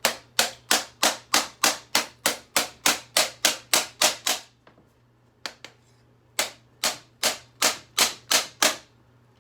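A run of sharp, evenly spaced taps, about three a second, that stops for about two seconds midway and then starts again.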